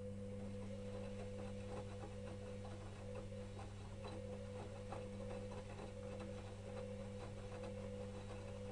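Electrolux EWS 1045 front-loading washing machine mid-wash, its drum motor humming steadily as the drum turns. Light irregular clicking from the tumbling load runs over the hum.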